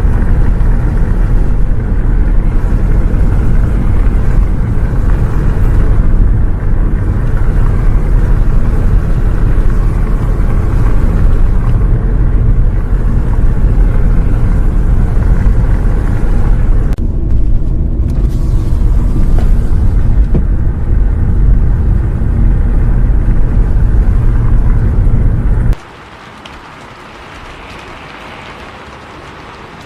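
Bus interior on the move: a loud, steady low rumble of engine and road noise with a hiss over it. About 26 seconds in it cuts off abruptly to a much quieter, even hiss.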